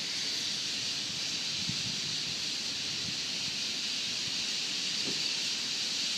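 Massed chatter of a large flock of birds roosting in trees, blending into one steady high-pitched hiss.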